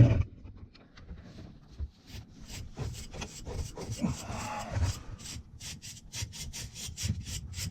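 A single thump, then a stiff brush scrubbing back and forth across the fins of a plugged condenser coil, knocking packed dirt loose. The strokes start about two and a half seconds in and settle into a quick rhythm of about three to four a second.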